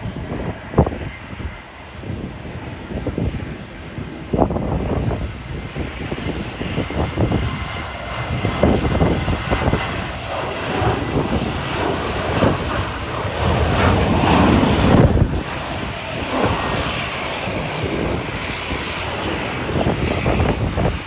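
Boeing 737-800's twin CFM56-7B jet engines at takeoff power, swelling to their loudest about two-thirds of the way through, with strong wind buffeting the microphone in uneven gusts throughout.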